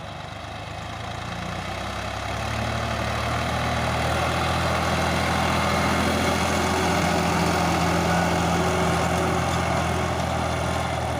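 Power tiller's diesel engine running steadily, growing louder over the first couple of seconds and then holding an even beat.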